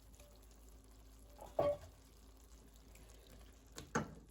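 Salt fish tipped into a pot of sautéing seasoning, frying quietly, with two short clanks against the cooking pot: one about one and a half seconds in, and a double knock near the end.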